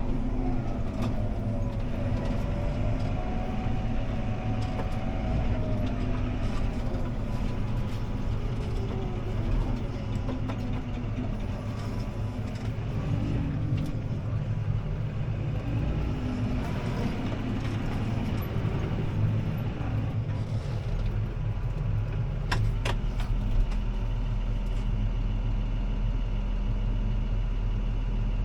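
CLAAS ARION 650 tractor's diesel engine running steadily under load, heard from inside the cab while it pulls a disc harrow, with a tone that wavers up and down in the first few seconds. A couple of sharp clicks come about 23 seconds in.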